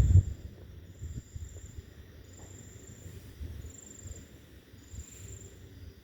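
A high insect trill, like a cricket, repeats about every second and a half, each trill lasting about a second. Under it are low rumbling knocks, loudest right at the start.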